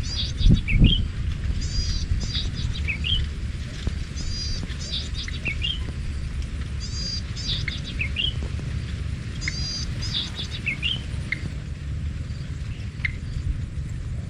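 A songbird repeating the same short phrase every two to three seconds: a quick run of high falling notes ending in a lower rising-and-falling note. Under it, a steady low wind rumble on the microphone, with a stronger gust about half a second in.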